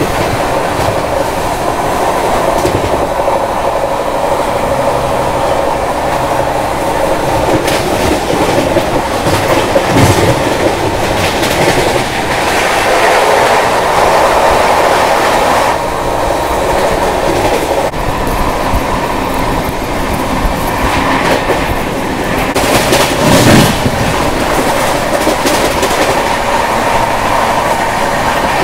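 Passenger train running at speed, about 125 km/h, heard from an open coach doorway: wheels clattering over the rails with a steady rushing noise. It grows louder for a few seconds in the middle as a freight train of open wagons passes close alongside, with a brief louder burst later on.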